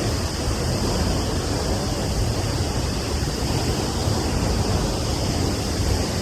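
La Fortuna Waterfall: falling water hitting the plunge pool, a steady rushing roar that covers everything.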